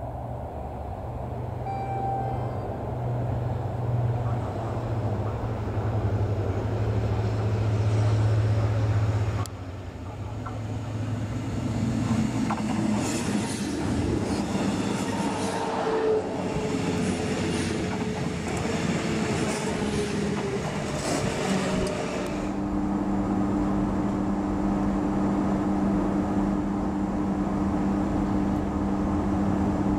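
Queensland Rail electric trains. First an approaching train's steady low hum grows louder. About ten seconds in this gives way to a train moving close by, with wheel and rail noise, clicks and squealing. About two-thirds through it becomes the steady hum heard inside a train carriage on the move.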